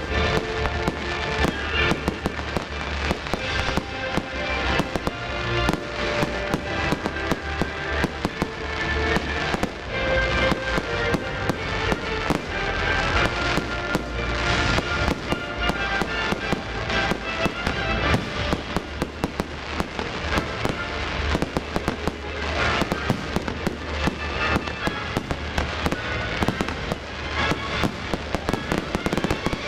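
Fireworks display: shells and comets bursting and crackling in rapid, continuous succession, over the music the show is set to.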